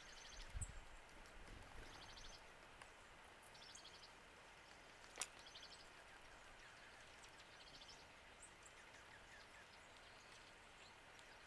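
A small bird faintly repeating a short, fast trill of high notes about every two seconds, over a soft outdoor hiss. A single sharp click about five seconds in, and a few low thumps in the first second.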